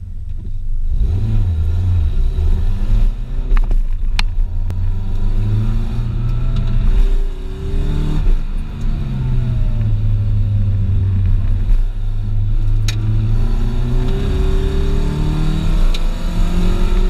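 1990 Nissan 240SX engine driven hard on an autocross run: it pulls away from a standing start about half a second in, then revs up and drops back again and again. A few sharp clicks come through over the engine.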